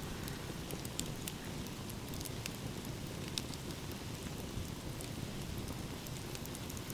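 Wood fire crackling, with irregular sharp pops and snaps several times a second over a steady low rush of sea waves.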